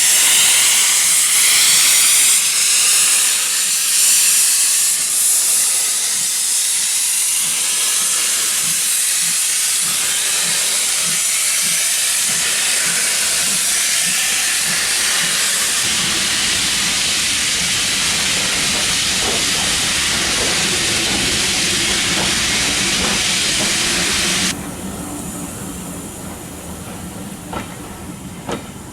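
A steam locomotive letting off steam in a loud, steady hiss. The hiss cuts off suddenly about 24 seconds in, leaving a quieter low hum with a couple of knocks.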